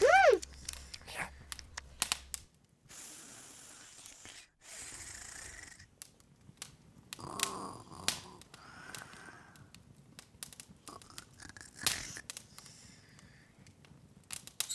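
Open log fire crackling, with sharp pops and snaps at irregular intervals and a couple of brief stretches of soft hissing. Right at the start, the loudest sound is a short high squeak that falls in pitch, like a cartoon character's voice.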